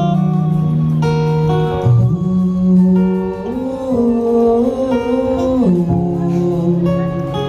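A man singing a slow Nepali Christian hymn in long held notes that step between pitches.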